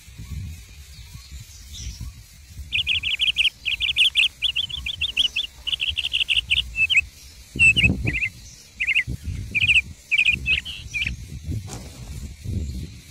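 A bird calling in fast runs of sharp, rapidly repeated chirps, breaking after a few seconds into short separate bursts that stop near the end, over a low rumbling noise.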